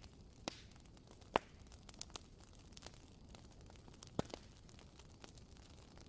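Wooden wick of a WoodWick candle crackling: sparse, irregular sharp pops over a faint steady hiss, the loudest about a second and a half in and again about four seconds in.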